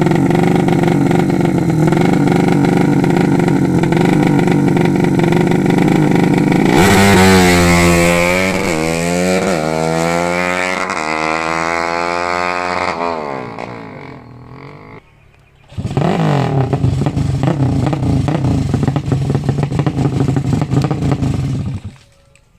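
A 200 cc tuned motorcycle racing engine running at a fast idle, then blipped several times in quick rising and falling revs. It dies away about 13 to 15 seconds in, comes straight back running steadily, and cuts off suddenly near the end. Right after it stops, the mechanics call it leaking.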